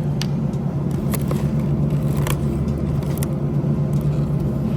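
A steady low mechanical drone that starts abruptly, with light clicks and rattles over it.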